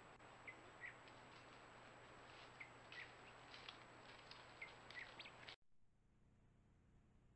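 Faint, short bird chirps, about a dozen at irregular intervals over a low hiss; they stop abruptly about five and a half seconds in, leaving near silence.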